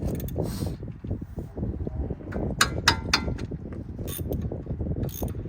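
Metal tools and car brake parts clicking and clanking, with a few sharp, ringing metallic strikes about two and a half to three seconds in, over a steady low rumble.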